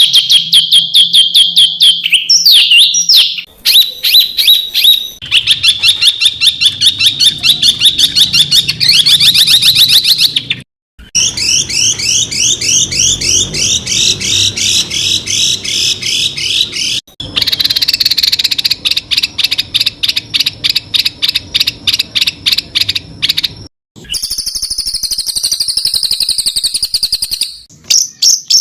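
Recorded songbird song made of very rapid, high-pitched repeated notes: the sharp 'tembakan' (shooting) phrases prized in Indonesian songbird contests, used here to train captive birds. It comes as several back-to-back clips that cut off abruptly, each a fast run of near-identical piercing notes, some slurring up or down, one near the end wavering higher.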